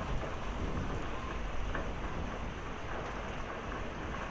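Steady heavy rain falling, with scattered drops striking nearby surfaces.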